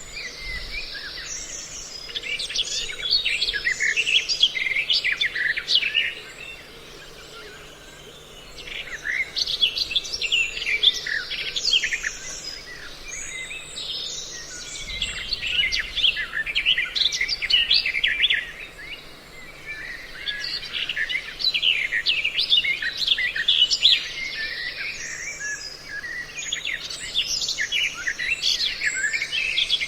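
Recorded songbird calls mixed from several species, played as a bird-trapping lure: dense bouts of high chirps and trills with brief lulls in between.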